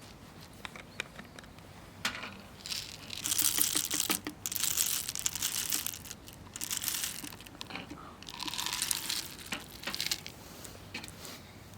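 Crinkling and crumpling sounds in four or five bursts of about a second each, after a few faint clicks.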